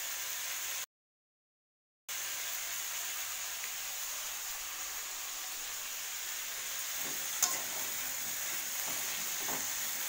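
Cauliflower florets sizzling steadily in hot oil in a metal kadai. A metal spatula clinks sharply against the pan once and scrapes it a few times near the end. The sound cuts out completely for about a second near the start.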